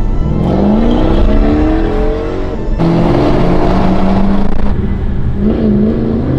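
Car engine revving hard under acceleration, its pitch climbing through the first few seconds, then holding steadier with a rush of noise, with a quick dip and rise in revs near the end.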